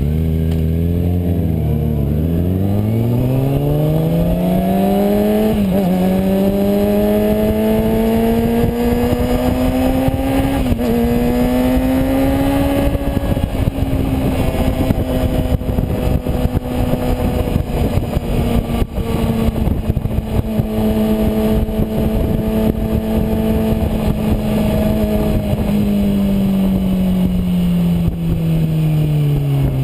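Kawasaki Ninja ZX-6R sportbike's inline-four engine accelerating hard through the gears. The revs rise steadily, with two upshifts about six and eleven seconds in, then hold steady before falling away near the end as the bike slows. Wind rushes and buffets over the onboard microphone.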